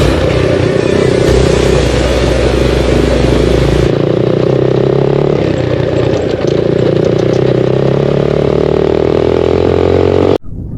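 Single-cylinder four-stroke engine of an SSR 125 dirt bike running under way at a fairly steady speed, quite loud, its pitch creeping up near the end before it cuts off abruptly.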